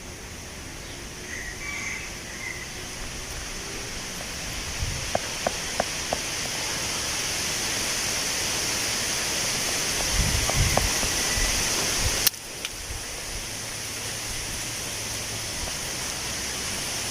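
Wind blowing through tree leaves: a steady rustling hiss that swells gradually, then drops suddenly after a click about twelve seconds in. A few light ticks come about five seconds in, low rumbles of wind on the microphone around ten seconds, and a faint high chirp near the start.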